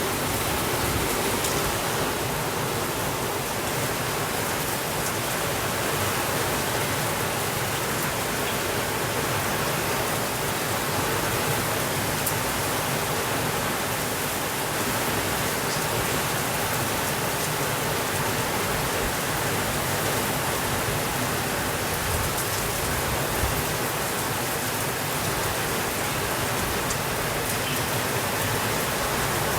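Steady rain falling, with a few faint crackles of a wood fire.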